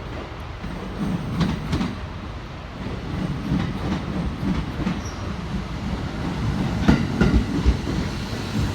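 Train running along the track: a steady low rumble with the wheels clacking over rail joints, growing louder toward the end.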